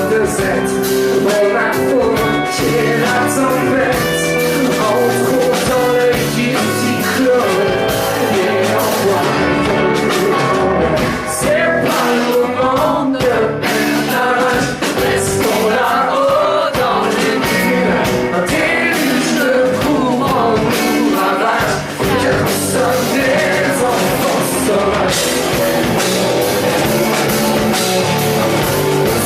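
Live rock performance of a song: a male voice singing over guitar and a rock band backing.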